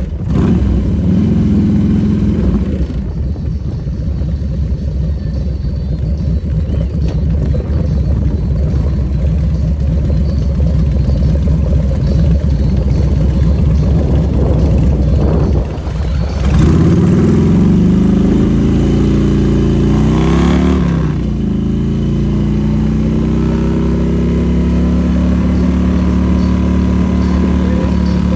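Motorcycle engine running while under way. About two-thirds of the way in, the engine revs up with a rising pitch as the bike accelerates, then settles back to a steady run.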